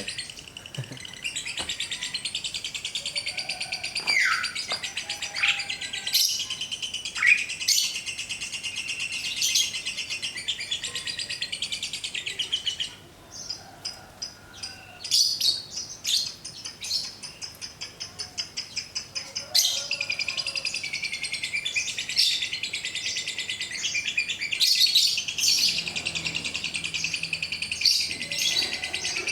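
Caged songbirds sunning and singing: a long, fast, continuous chattering trill with several falling whistled calls over it in the first few seconds. Around the middle the trill breaks into shorter bursts, then runs on unbroken again.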